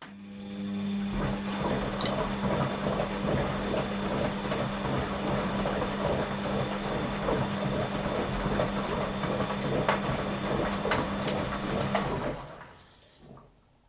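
Washing machine running for about twelve seconds in a wash program, a steady motor hum under churning, sloshing noise, then stopping.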